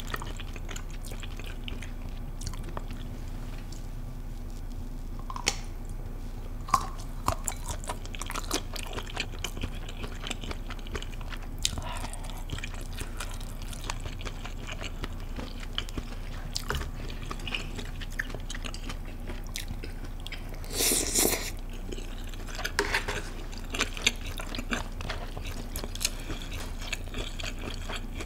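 Close-miked chewing and wet mouth sounds of someone eating mala tang: spicy broth with wide flat noodles and tofu. Scattered light clicks run throughout, with one louder noisy burst lasting about a second roughly three-quarters of the way in.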